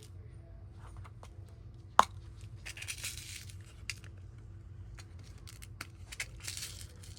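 Craft materials handled on a work table: a sharp click about two seconds in, small ticks, and two short stretches of paper rustling and scraping.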